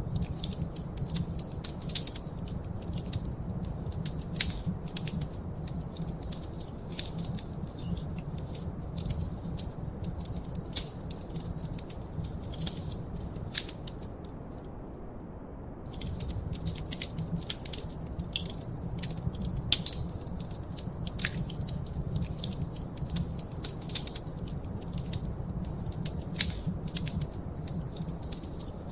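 Wood fire in a fireplace crackling and popping: many sharp snaps over a steady low rumble. The crackles stop for about a second and a half midway, then pick up again.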